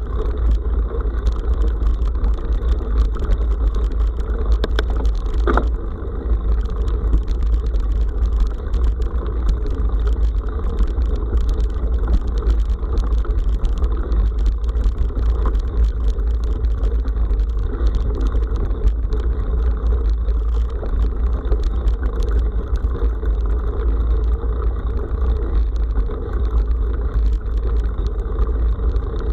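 Steady low rumble of wind and riding noise buffeting an action camera's microphone on a moving bike over a forest track, with a few faint rattles or clicks about five seconds in.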